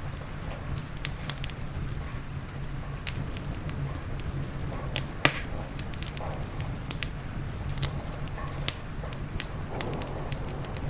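Wood fire crackling in a fireplace: irregular sharp pops and snaps, the loudest about five seconds in, over a steady low rumble and hiss.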